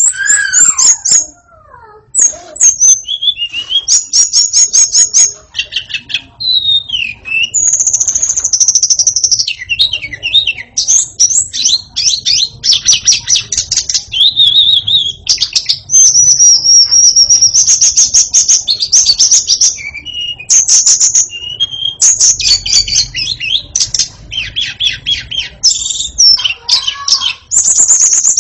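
White-rumped shama (murai batu) singing loudly in a long, varied song of rapid chattering trills mixed with clear whistled notes, broken by a few short pauses.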